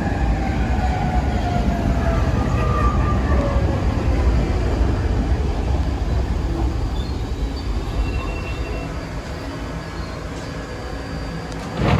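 New York City subway train running on the track, a heavy rumble with a motor whine falling in pitch over the first few seconds. The rumble then fades, dropping off from about eight seconds in.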